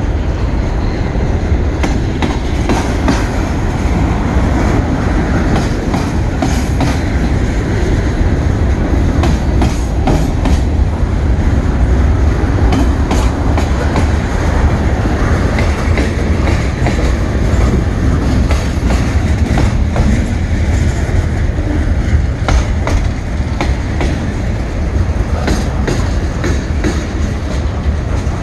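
Mixed freight cars (tank cars, covered hoppers, autoracks) rolling past close by: a steady, heavy rumble of steel wheels on rail, broken by frequent sharp clicks and clacks from the wheels.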